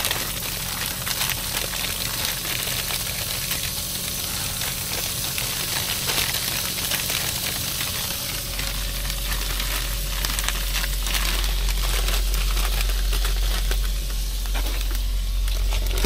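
Seasoned broccoli and shrimp sizzling and crackling as they fry in a pan, a continuous hiss dotted with small pops. A low steady hum lies underneath and grows stronger about halfway through.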